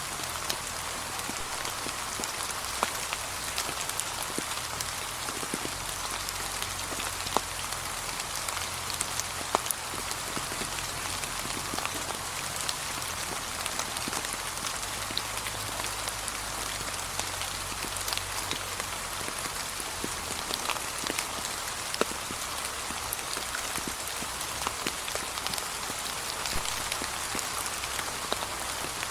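Steady light rain falling on a surface, an even hiss with many distinct drops ticking sharply throughout.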